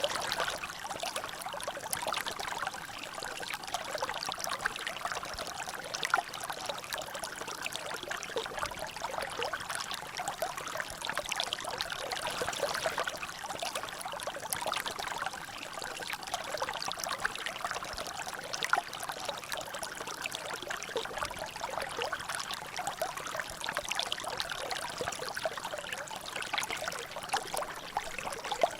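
Water trickling and dripping in a natural drainage: a steady run of small drops and splashes, with a few louder drops standing out.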